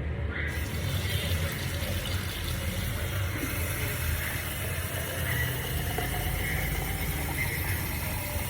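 Tap water running steadily, wetting a humidifier's wick stick; the flow starts about half a second in.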